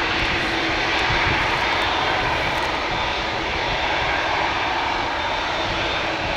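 Turbofan engines of a Boeing 787-9 airliner running, a steady, even jet noise with a steady low hum through it.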